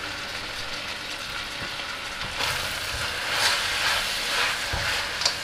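Chicken pieces sizzling in a sesame-oil and soy-sauce glaze in a stainless-steel wok. The sizzle swells about two seconds in as a spatula starts stir-frying them. A light knock and click of the spatula against the wok come near the end.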